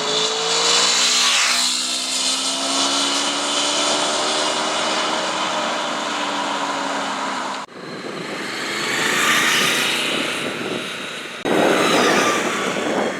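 Honda VFR800 V4 motorcycle engine running at speed, its pitch falling slowly, in clips that cut abruptly twice, the last one louder and rougher.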